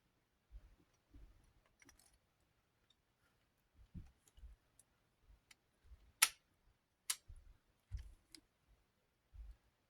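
Scattered light clicks and a few dull knocks from small desk-fan motor parts being handled and fitted together during reassembly, the sharpest click about six seconds in.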